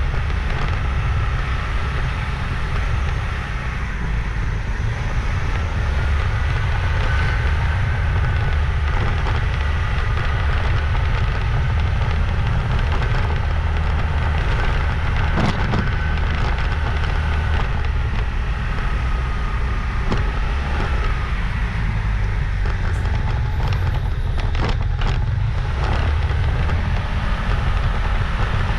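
Motorbike riding along a road: a steady engine and road noise under a heavy low wind rumble on the microphone. A few sharp clicks or knocks about halfway through and again near the end.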